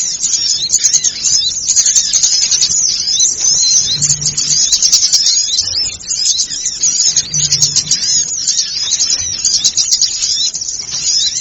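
Dense, unbroken chorus of many small birds twittering in rapid high chirps, as played from a lure recording to draw small birds in. A brief low hum recurs about every three to four seconds beneath it.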